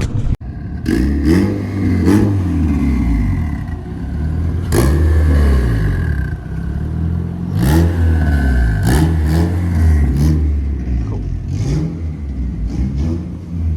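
Car engine being revved again and again, its pitch climbing and falling several times in quick blips, with a faint high whine alongside.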